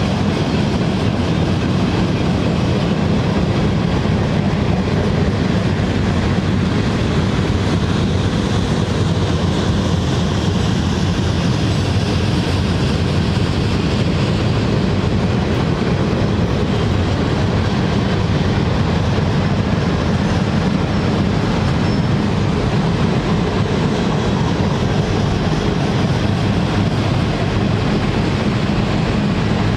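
Cars of a Union Pacific mixed freight train (boxcars, tank cars, covered hoppers) rolling past: a steady, heavy noise of steel wheels on rail that does not let up.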